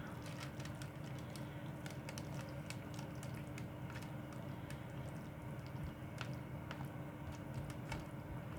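Ready-meal noodles and sauce being stirred in their plastic trays, with soft squishing and scattered small clicks of the utensil against the tray.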